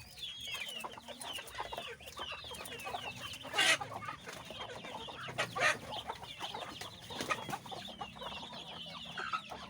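Poultry calling in a pen: a steady run of short, high chirps, with two louder calls about four and five and a half seconds in.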